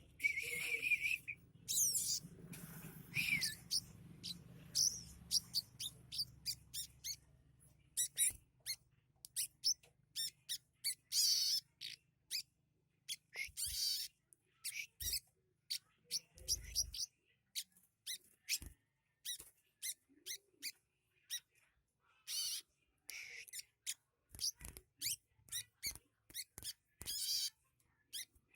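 Spiderhunter (sogok ontong) singing a rapid, irregular string of short, sharp high chirps and trills, with fill-in phrases mimicking house sparrow and tailorbird calls. A low hum sits underneath for the first several seconds.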